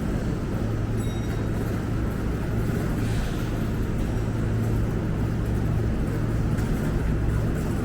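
Kintetsu Aoniyoshi limited express electric train pulling out of the station: a steady low hum and rumble of the train moving along the platform.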